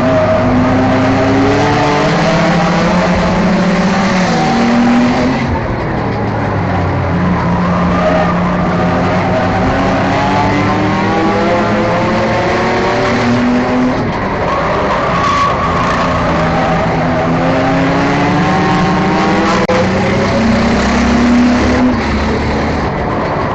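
Enduro-class race car engine at racing speed on a short oval, its pitch climbing for several seconds under throttle and then dropping as it lifts off, about three times over, among the noise of the other cars in the field.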